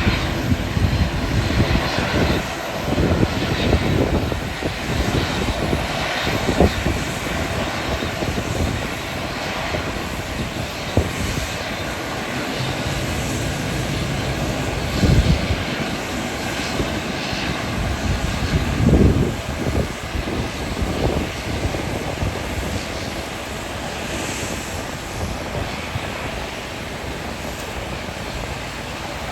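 An airliner's engines running at the airport, with strong wind buffeting the microphone in irregular low gusts.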